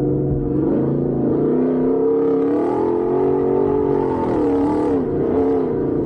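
A vehicle engine revving up under acceleration, holding high, then dropping sharply about five seconds in and picking up again.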